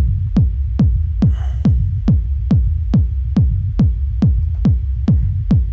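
Techno loop playing back: a 909 kick drum hitting about two and a third times a second, each hit dropping quickly in pitch, over a deep rumble bass that runs between the kicks and is ducked under each hit by sidechain compression.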